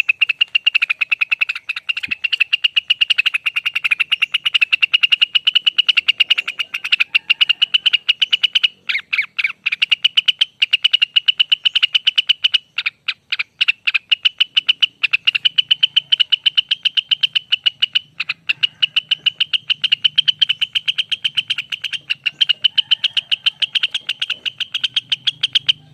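Cucak wilis (Rengganis) leafbird singing its long 'ropel' trill: a rapid, continuous string of short, high, even notes, broken only by a few brief pauses.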